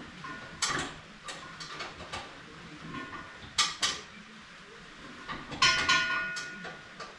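Metal clanking and clinking as metal parts and tools are handled: scattered sharp knocks, a louder pair about three and a half seconds in, then a cluster near six seconds that rings on with a metallic tone.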